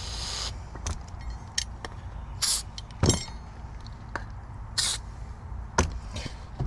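Short hisses of aerosol lubricant sprayed into lock parts, three brief bursts, among light clicks and knocks of lock hardware being handled, with a heavier knock about three seconds in.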